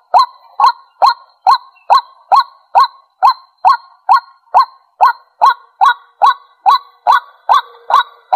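White-breasted waterhen giving its repeated 'kwak' call: a steady series of short, loud notes, a little over two a second, each falling slightly in pitch.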